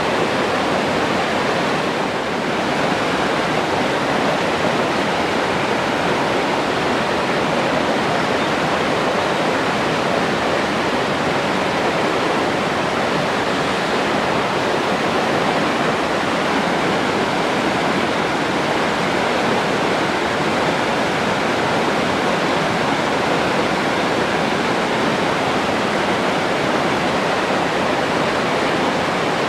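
Forest stream flowing over rocks: a steady, full rush of running water.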